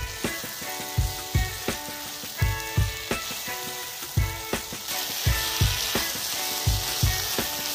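Mushrooms, capsicum and onion sizzling in hot oil and masala in a kadai as they are stirred. Background music with a steady beat, about two beats a second, plays over it and is the loudest sound.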